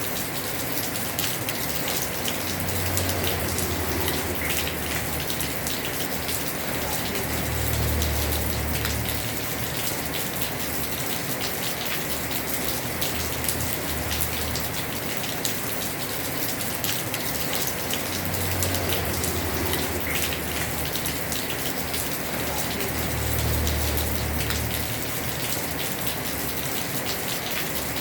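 Heavy rain drumming steadily on a house roof, a dense patter of drops, with a low rumble swelling up and fading four times.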